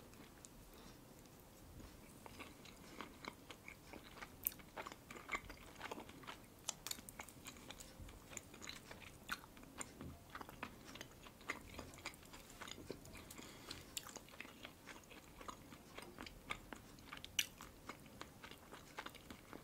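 Quiet chewing of a red-caviar sandwich: many soft, irregular mouth clicks and smacks.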